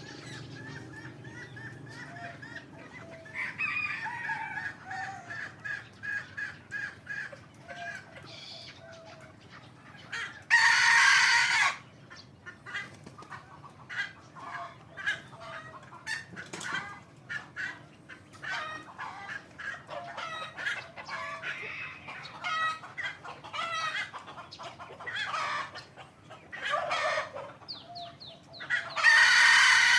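Young hybrid Indian junglefowl cockerels crowing: two loud crows, one about ten seconds in and one near the end, with many shorter calls and clucks in between.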